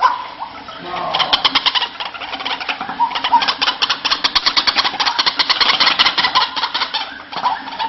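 White-breasted waterhen (ruak-ruak) calling: a fast run of harsh, rapidly repeated notes that starts about a second in and stops shortly before the end.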